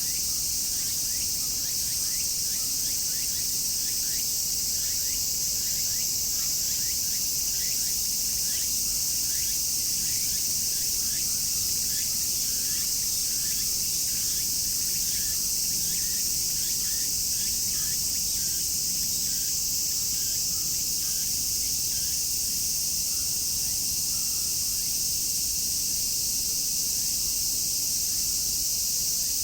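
Dense, steady chorus of cicadas, a high-pitched shrill drone that never lets up. Through most of it, fainter short falling chirps repeat over and over underneath.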